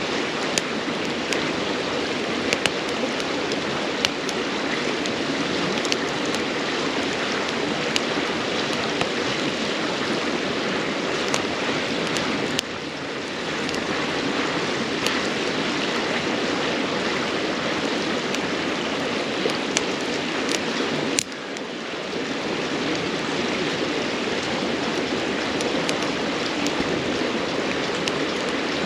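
A river babbling steadily, with a wood campfire crackling over it in scattered sharp pops.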